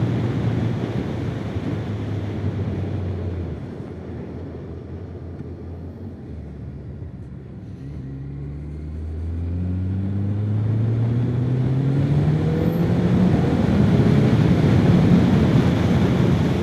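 Honda CBR1100XX Blackbird's inline-four engine running steadily, then about halfway through accelerating, its note rising in stages and getting louder.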